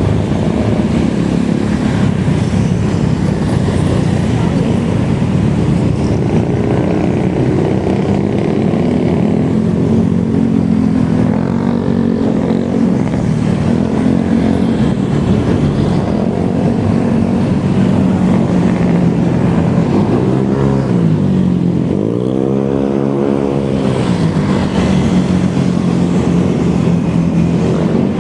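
Steady road and wind noise of a ride in progress, with engine hum under it. About three-quarters of the way through, an engine rises and falls in pitch.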